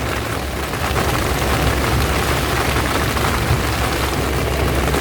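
Heavy rain pouring steadily, with a deep continuous rumble underneath.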